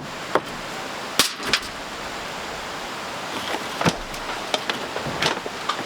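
Scattered sharp knocks and clacks, about a dozen at irregular spacing and more frequent in the second half, over a steady hiss of rain.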